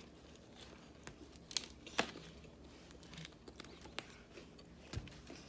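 A person chewing a mouthful of omelette burrito close to the microphone: soft wet mouth noises and crinkly tortilla sounds, with a few sharp clicks, the loudest about two seconds in, and a dull thump near the end.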